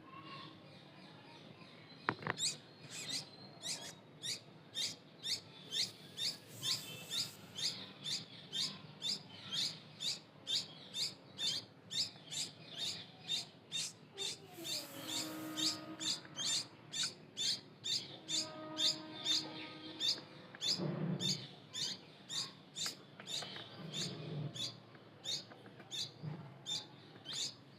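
Small birds chirping: short, sharp, high chirps repeated at about two a second, starting about two seconds in and running steadily. Lower, longer calls come in here and there around the middle.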